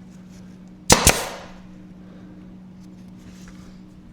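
Pneumatic nail gun firing one nail into a wooden stake about a second in: a sharp double snap with a short hiss after it.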